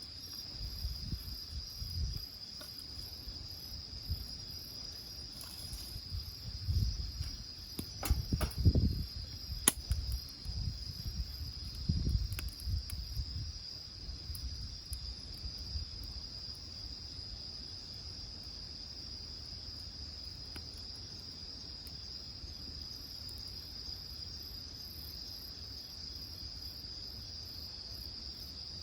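Crickets trilling steadily in a high, even chorus. Over the first half there are low rumbling bumps and a few sharp clicks, which then die away.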